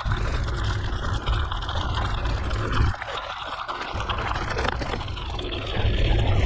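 Wind rumbling and buffeting across the microphone of a mountain bike rolling along an unpaved forest road, with a steady hiss of tyre noise underneath. The rumble lets up briefly about three seconds in, then returns.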